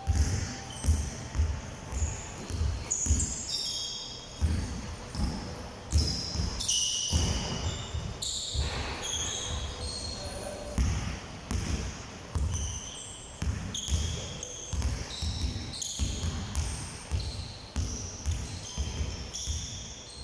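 Basketballs bouncing on a hard court in a large hall, many dribbles overlapping at several thuds a second, with short high squeaks scattered throughout.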